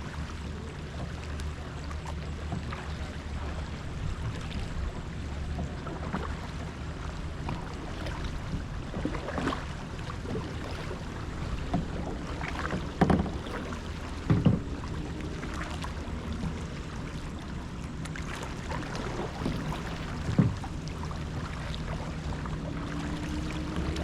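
Kayak paddling: irregular paddle splashes and light knocks on the hull, a few louder ones about halfway through, over a steady low rumble of wind on the microphone.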